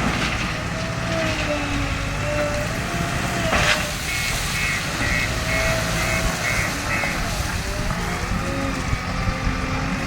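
JCB 3DX backhoe loader's diesel engine running under load, with a hydraulic whine that rises and falls as the arm works. There is a sharp clunk about three and a half seconds in, and a run of about eight short, quick beeps in the middle.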